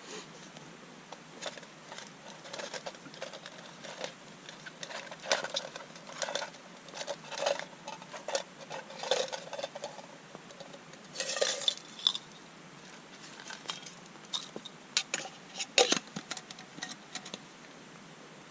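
Gear being handled close up: irregular rustles, clicks and light knocks, busiest from about five to twelve seconds in and again around fifteen to seventeen seconds.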